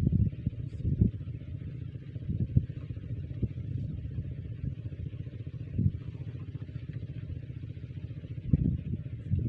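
Small diesel engine of a water-pump set running steadily, with irregular louder thumps every second or few.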